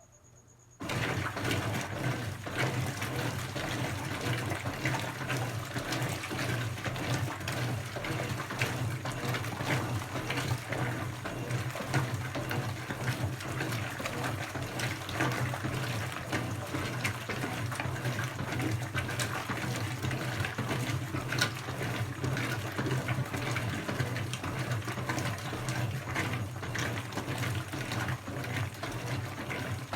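Brastemp 17 kg washing machine (BWK17) starting up suddenly about a second in, then running steadily: rushing water over a low, even hum.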